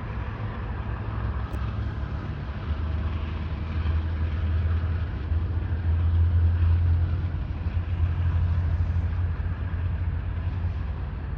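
General Electric diesel-electric locomotive working as a distributed power unit at the rear of a freight train getting underway: a steady low engine drone that swells around the middle.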